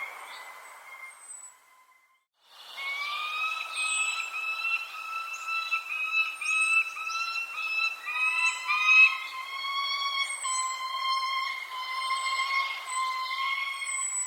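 Short, high bird chirps repeat over a steady, high-pitched whining tone with overtones that shifts pitch every second or so. Everything drops out briefly about two seconds in.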